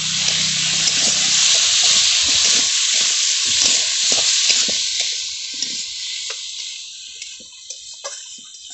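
Potato pieces sizzling in hot oil in a metal karahi while a steel spoon stirs and scrapes the pan, about three strokes a second. The sizzle fades away over the last few seconds.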